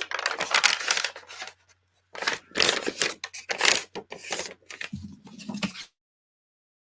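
Stiff paper and card being handled and worked at a crafting table, in a series of scratchy rustling bursts. The sound cuts off abruptly near the end into dead silence.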